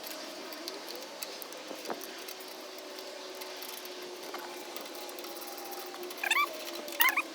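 Two short pitched animal calls near the end, over a faint steady hum and a few light clicks.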